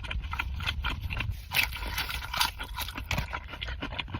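Close-miked eating: chewing with quick, irregular wet mouth clicks and crackles.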